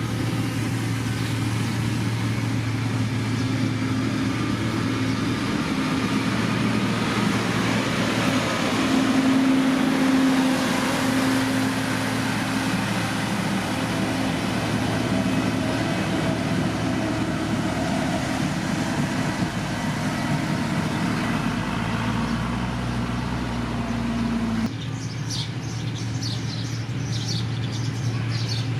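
Heavy road-construction machinery running, a steady diesel engine drone with wide noise over it. A little over three-quarters of the way through, the sound changes abruptly to a lighter, steady engine tone with short high chirps on top.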